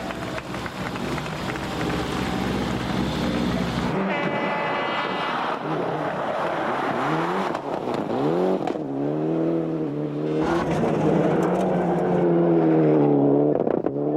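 1995 Group A rally car engines revving hard, their pitch repeatedly climbing and dropping through gear changes, with the sound changing abruptly about four seconds in and again about ten seconds in as shots change.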